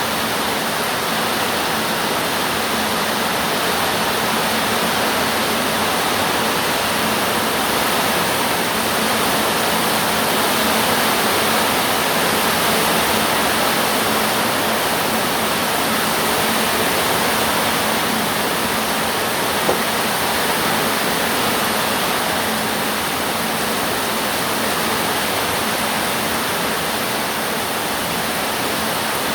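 Steady, unbroken rushing noise, even in level throughout, with a single short tick about two-thirds of the way through.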